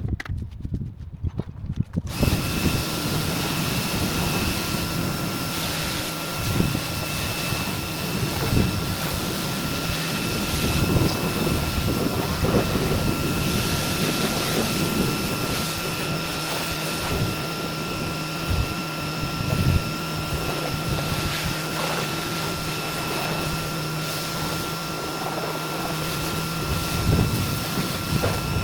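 A motor-driven machine starts about two seconds in and runs steadily, with a constant high whine over a rushing noise.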